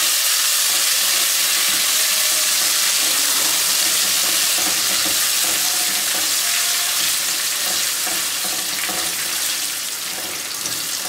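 Coconut, almonds and raisins sizzling in desi ghee as they are roasted and stirred with a silicone spatula in a nonstick pan. It is a steady, hissing sizzle that eases off a little toward the end.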